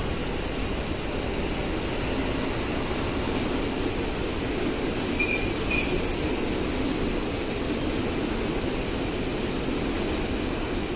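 A train running along the track, with steady wheel and rail rumble. Two short, high wheel squeals come about five seconds in.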